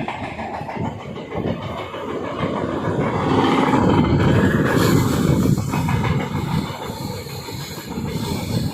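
A train running on the rails, a heavy rumble that swells to its loudest in the middle and then eases off.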